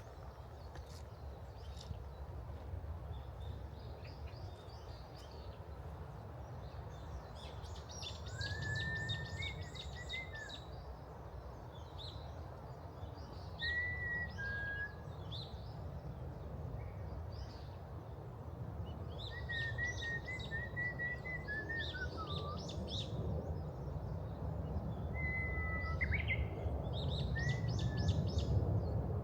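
Wild birds calling and singing: clusters of rapid, high chirps and short whistled notes that slide up and down, coming every several seconds over a steady low rumble.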